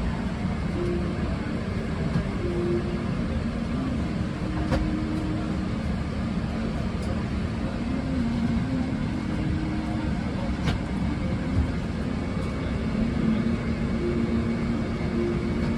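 Steady low rumble of a Boeing 777-300ER's cabin noise, the air system and engines heard from the seat, with faint murmuring voices. Two sharp clicks sound about five and eleven seconds in.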